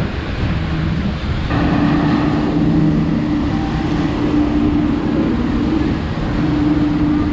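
Regal powerboat's engine running steadily underway, its hum mixed with wind and water noise. The engine note fills out and grows a little louder about a second and a half in.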